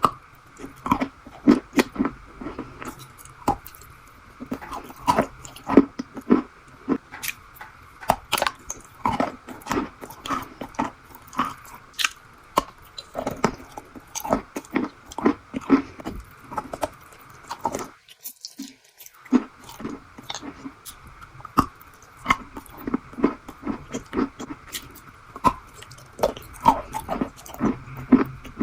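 Close chewing of crunchy strawberry crunch, with crisp crunches about two or three a second over a faint steady hum, and a short pause about two thirds of the way through.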